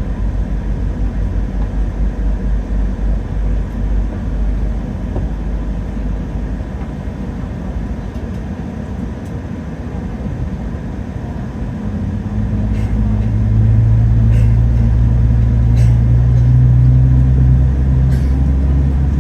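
Boeing 777-300ER's GE90 turbofans heard from the cabin: a low rumble while the aircraft rolls, then about twelve seconds in the engines spool up to takeoff thrust, a low drone rising in pitch and growing louder. A few faint rattles come near the end.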